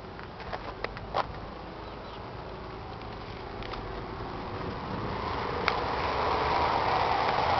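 Ford 6610 tractor's four-cylinder diesel engine running with a steady drone that grows louder from about halfway through, with a few light clicks near the start and a sharp click later.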